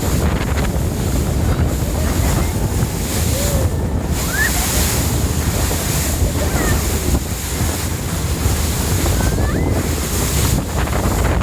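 Wind buffeting the microphone over the steady low rush of a sightseeing boat moving through the sea, with a few faint short whistles about halfway through and near the end.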